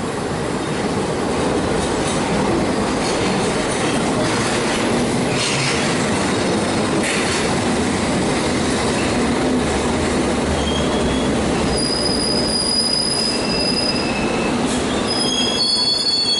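London Underground District Line train running along the platform, a loud steady rumble of wheels on rail. From about eleven seconds in, several high, steady squealing tones join in as it slows.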